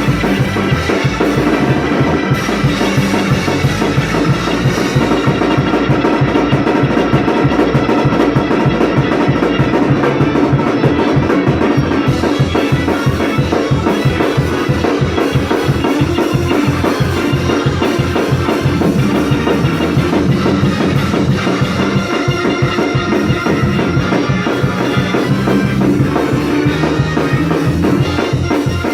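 Organ and drum kit playing together: sustained organ chords over a fast, steady drum beat.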